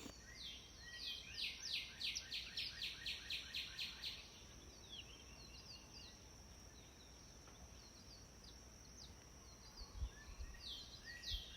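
A small bird singing faintly, a quick series of chirps about four a second that stops and starts again near the end, over a steady high thin hum.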